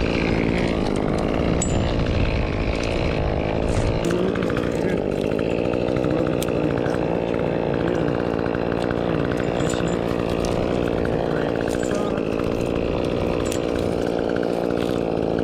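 Echo CS-2511T top-handle chainsaw, a small two-stroke, running continuously; its pitch shifts up and down from about four seconds in as it works.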